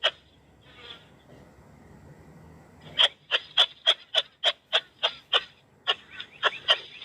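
Faint background noise for the first few seconds, then an animal calling in short, sharp, repeated calls, about three a second, pausing briefly before starting again.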